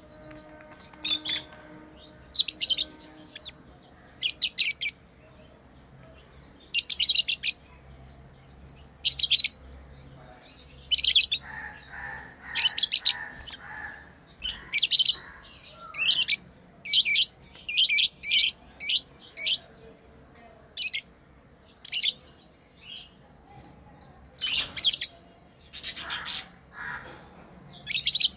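Pet lovebirds chirping: shrill, short high-pitched chirps, some single and some in quick runs of several, at irregular intervals, with a lower repeated call in the middle.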